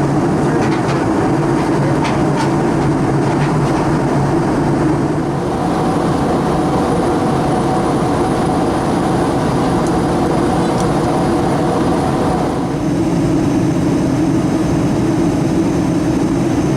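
Steady loud drone of a moving vehicle heard from inside, with a low hum and a few faint steady whines; its tone shifts abruptly about two thirds of the way through.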